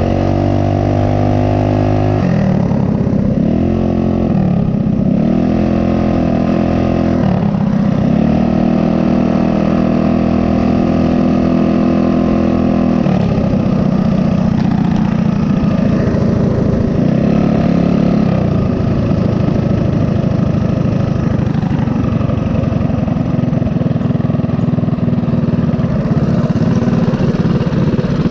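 Small single-cylinder mini bike engines running loudly under way, the pitch dropping and climbing again several times as the throttle is eased off and opened. The engine note turns rougher and less even about halfway through.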